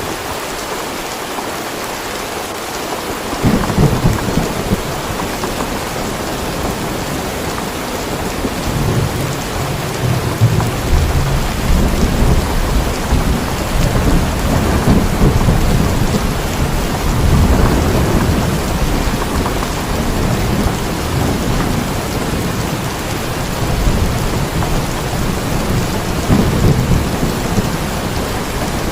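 Steady heavy rain with rolling thunder. A rumble breaks in about three and a half seconds in, a longer roll builds from about eight seconds and runs on for over ten seconds, and another swell comes near the end.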